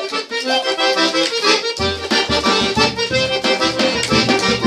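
Forró accordion solo in an instrumental break of the song. The bass and beat come in about two seconds in.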